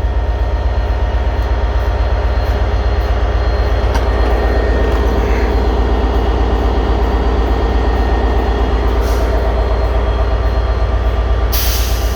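Diesel train's engine running steadily at the platform, a deep, even drone, as the train gets ready to set off. A short hiss comes near the end.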